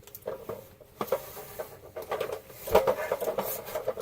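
Handling noise as the power cord of a new portable baseboard heater is loosened and unwound: irregular clicks and rustling, busiest and loudest about three-quarters of the way through.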